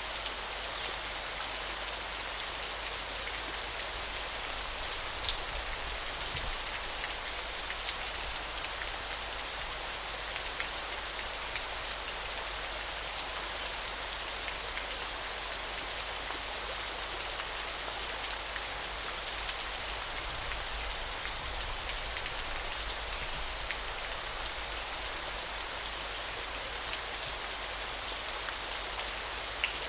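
Flowing river water: a steady, even rush of water noise. About halfway through, a thin, high, steady tone joins it, sounding in repeated bouts of about two seconds with short breaks between.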